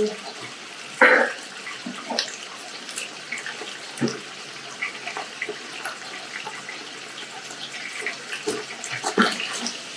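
Raw chicken pieces and garlic paste frying in hot oil in a large nonstick pot: a steady sizzle with scattered crackles. Two louder short knocks come about a second in and near the end.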